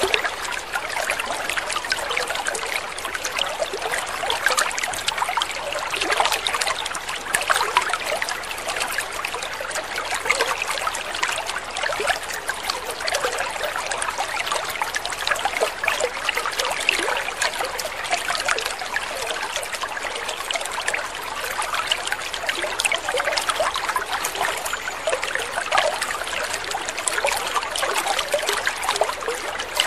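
Water trickling steadily, with many small splashes.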